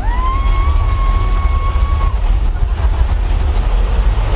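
Mine-train roller coaster rumbling steadily along its track, with a rider's cry sweeping up into one long high note for about two seconds at the start.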